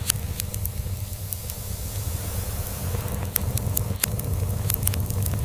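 A log fire crackling, with scattered sharp pops, over a cat's steady low purr.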